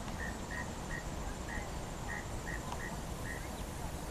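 A small animal chirping steadily outdoors: short, high chirps at one pitch, about two or three a second, over a low outdoor hiss.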